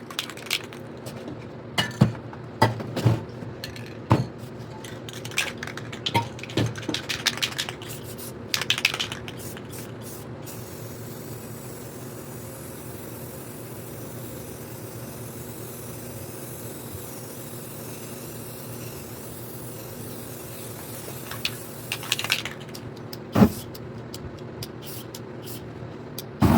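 Aerosol spray paint can hissing in one short burst about nine seconds in, amid scattered knocks and clicks of cans and tools being handled. Under it all runs a steady low hum.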